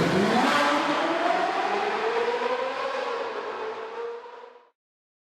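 A race car engine accelerating, its pitch climbing steadily, then fading and cutting off about four and a half seconds in.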